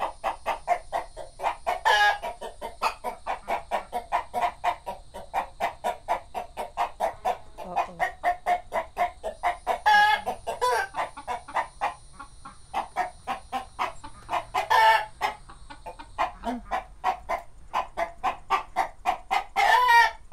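Backyard hens clucking in a rapid, steady run, about four or five clucks a second, with four louder squawks spread through.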